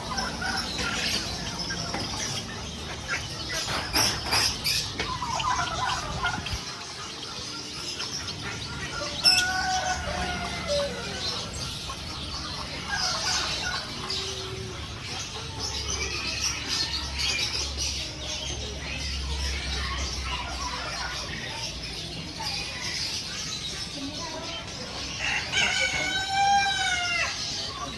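Bird market ambience: many caged birds calling and chirping together. A sharp click comes about nine seconds in, followed by a loud arching call. Near the end there is another call made of several rising-and-falling notes.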